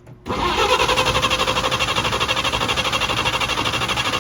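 1948 Chevrolet truck's inline-six engine being cranked by its starter with the choke pulled, a fast, even pulsing that starts a moment in and stops near the end without the engine catching. The engine won't fire, which the owners take to be flooding.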